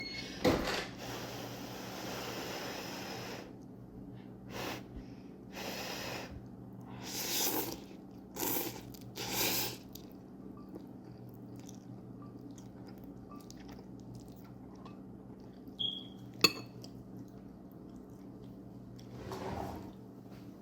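Eating and food-handling sounds from a buldak ramen mukbang: a handful of short, noisy wet sounds in the middle stretch and once more near the end, with a sharp click near the start and another about two-thirds through, over a steady low hum.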